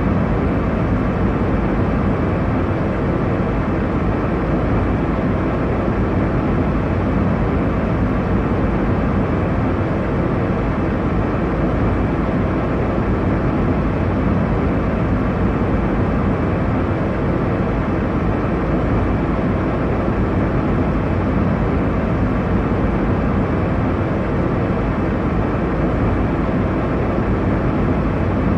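Airliner cabin noise in cruise: a steady, unchanging low rumble and rush of engine and airflow noise, heaviest in the bass, with no distinct events.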